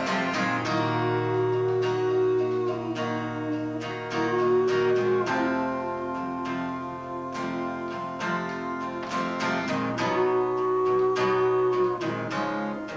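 Acoustic guitar strummed in a steady rhythm, with long held melody notes over it, recorded through a basic VHS camcorder microphone.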